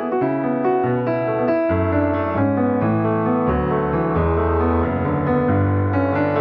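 Piano music: a slow run of sustained notes over a low bass line.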